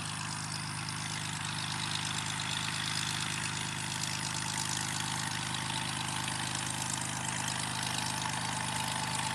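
A piston engine running steadily at low power, with an even drone and a faint steady higher whine.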